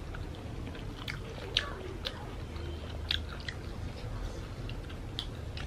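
Close-up biting and chewing of crunchy fried food, heard as a scatter of short, crisp crunches and mouth clicks at irregular moments.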